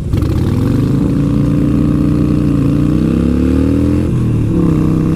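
Motorcycle engine pulling away and accelerating, its pitch rising, then dropping about four seconds in as it shifts up a gear and carries on at a steady pace.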